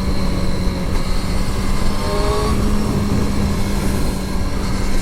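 Kawasaki Ninja motorcycle engine running at a steady cruise, its pitch stepping up slightly about halfway through, heard through a helmet-mounted mic with heavy wind rush.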